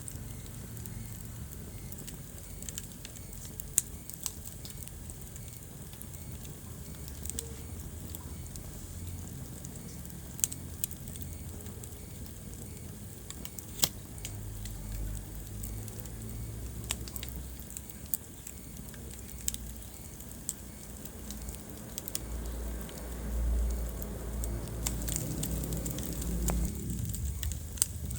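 Wood fire burning in a fireplace: irregular sharp crackles and pops over a low rumble of flames, the rumble swelling for a few seconds near the end.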